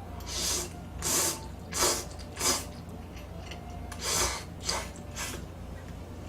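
Close-up chewing of crunchy food: seven short crackling crunches in two runs, four and then three, about one and a half a second.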